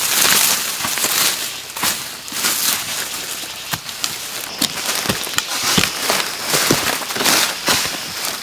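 Dry plant material crackling and snapping in quick, irregular clicks, with a steady rustling hiss underneath.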